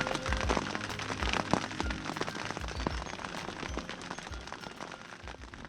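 Heavy rain drumming in a dense patter of drops, with some heavier low thuds, fading gradually toward the end.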